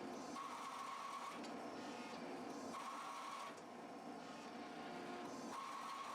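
A forging machine running steadily, with a whine that comes and goes for about a second at a time, as a steel bar is worked between flatting dies. There are no hammer blows.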